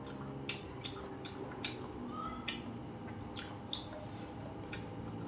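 A person chewing food: scattered soft, wet mouth clicks and smacks, a few to a second, over a faint steady hum.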